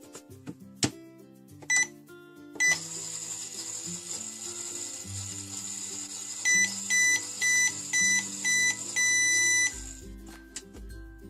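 Microwave oven running and beeping: two short beeps, then a steady hum for about seven seconds, ending with five quick beeps and a longer final beep as it finishes, with background music.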